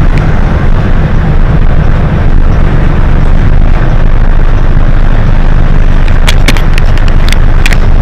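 Hino HS8JRVL-UTF city bus running on the road: a loud, steady, deep engine and road rumble, with a quick run of sharp clicks or rattles about six seconds in.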